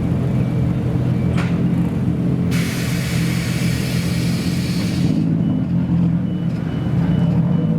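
Modified car engine idling steadily, with a sharp click about a second and a half in and a hiss lasting about three seconds in the middle.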